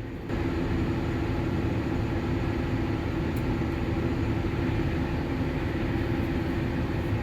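Steady drone of harvest machinery running, a combine or tractor engine with a constant low hum. It comes in about a third of a second in and holds level.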